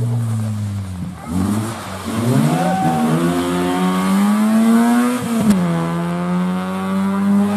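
Rally car engine under hard acceleration: its pitch dips, then climbs for a few seconds, falls sharply at a gear change with a short crack about five and a half seconds in, and then holds steady.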